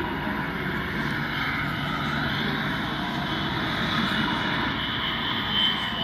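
A steady mechanical drone with a faint high whine over it.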